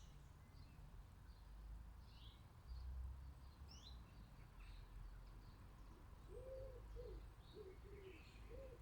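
Faint garden birdsong: small birds giving short, high chirps, and from about six seconds in a dove cooing in a low, repeated phrase of several notes.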